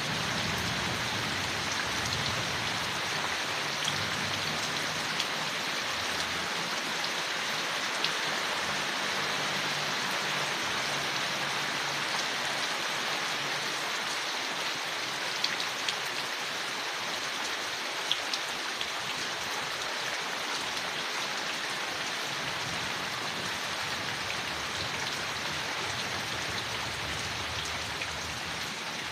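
Steady rain falling on leaves, an even hiss with scattered droplet ticks.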